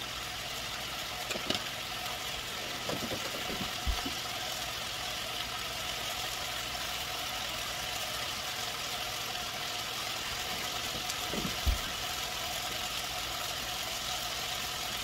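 Steady sizzling of cabbage, spinach and tomato paste cooking in a steel pot. There is a dull knock about four seconds in and a louder one near twelve seconds.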